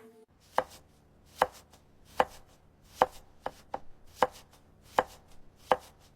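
Knife chopping food on a cutting board: about seven firm chops at a steady pace, roughly one every 0.8 seconds, with a couple of lighter taps in the middle.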